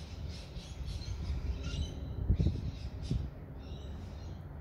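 Birds chirping in the background over a low wind rumble on the microphone, with two low bumps a little over two and three seconds in.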